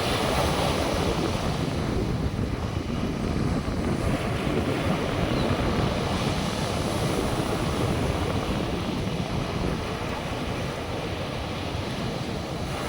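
North Sea surf washing onto the beach, with wind buffeting the microphone in a steady rushing noise.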